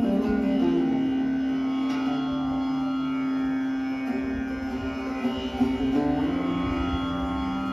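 Sarod played in a slow, sustained passage, its ringing notes over a steady held drone tone.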